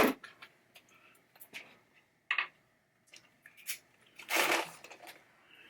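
Hands working on a pinball mechanism with tools: a sharp click at the start, then scattered light clicks and knocks, and a short scraping rustle about four seconds in.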